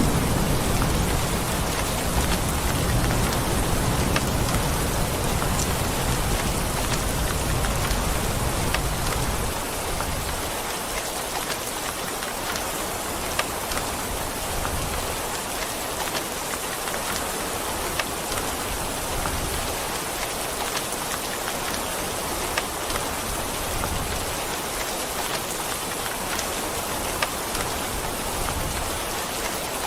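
Steady rain falling, an even hiss with scattered sharper drop taps. A low rumble sits under it for roughly the first third and stops suddenly.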